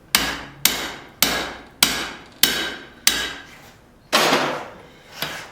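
Hand hammer striking hot steel on an anvil while forging a blacksmith's tong: about seven blows, roughly two a second, each with a short metallic ring, and a longer, duller blow about four seconds in.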